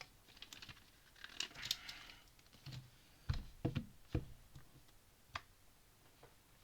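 Plastic Lego pieces being handled: a couple of seconds of light rustling and rattling, then four sharp clicks of bricks being set down or snapped together.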